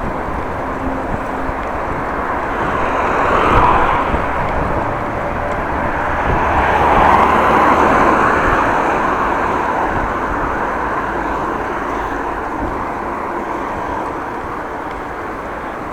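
Steady rushing wind and road noise on a moving bicycle, swelling twice: about three and a half seconds in and again around seven to eight seconds.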